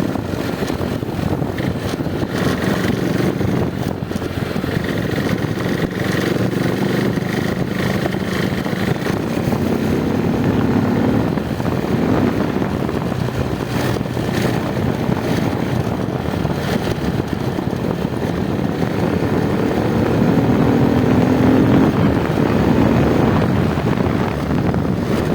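Motorcycle engine running under way with wind rush, its pitch rising about halfway through and again near the end as the throttle opens.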